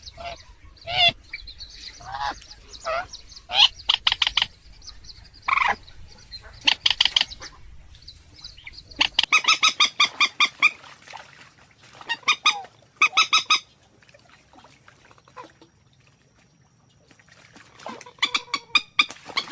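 Calls of a rail-family waterbird known in Vietnamese as trích sâm cầm (swamphen or coot kind): separate honking notes, then fast runs of repeated notes around the middle, a quieter stretch, and another run near the end.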